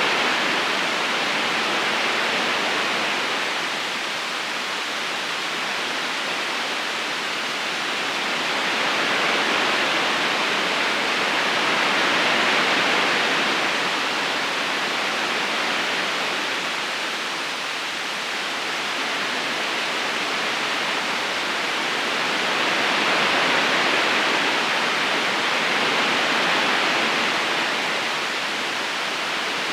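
River current rushing steadily over stones, a continuous hiss of water that slowly swells and eases every several seconds.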